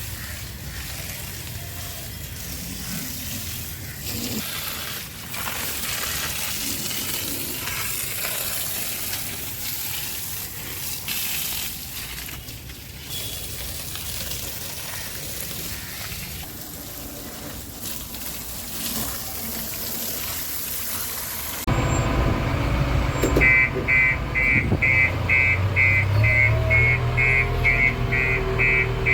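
Steady hiss of water spraying during machine washing. About two-thirds through it cuts abruptly to a diesel engine running, with a rapid high beeping of two to three beeps a second starting soon after.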